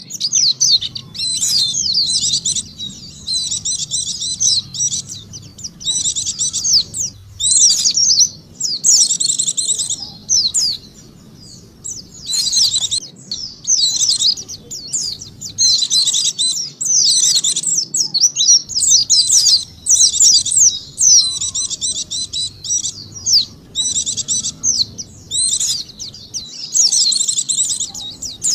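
White-eye (pleci) song, a lure call: phrases of rapid, high twittering chirps, each a second or two long, repeated with short gaps between them.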